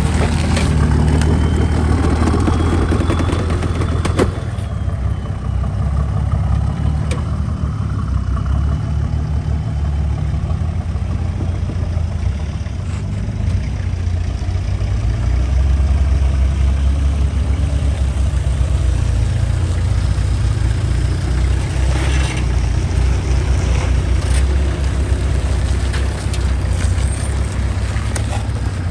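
Four-wheel-drive vehicle driving on a rough track: a steady, loud low engine and drivetrain rumble, with a few sharp knocks.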